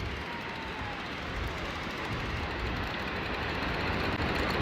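Steady wind and surf noise on the beach, a rough rumbling hiss that grows slightly louder toward the end.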